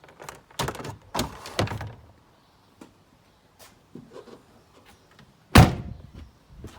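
Several knocks and clunks in the first two seconds as the Range Rover's boot is closed up, then one loud slam about five and a half seconds in, as the split tailgate is shut.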